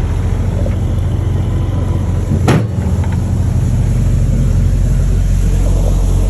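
Semi truck's diesel engine running steadily, with a short loud rush of noise about two and a half seconds in, after which the engine note shifts slightly.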